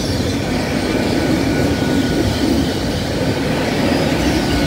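LNER Azuma (Class 800) passenger train passing at speed, a loud, steady rumble of wheels on rail and running gear with a faint steady whine above it.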